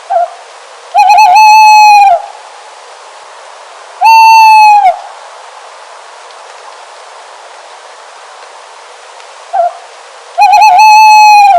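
An owl hooting: three loud, drawn-out calls, each wavering at the start, held, then dropping away. The first and last are preceded by a short note. A steady hiss runs underneath.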